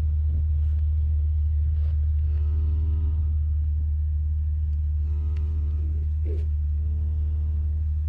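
A vehicle engine idling with a steady low hum, and over it three drawn-out bawls of about a second each from cattle, from the newborn calf or its mother cow.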